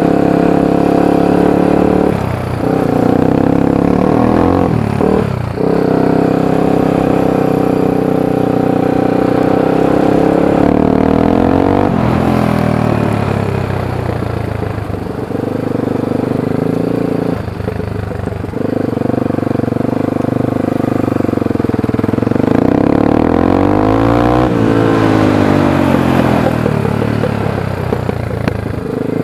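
2001 Honda 300EX ATV's single-cylinder four-stroke engine, fitted with an FMF full exhaust, being revved hard. It is held at high revs, then drops and climbs again several times, with a few quick sweeps down and back up.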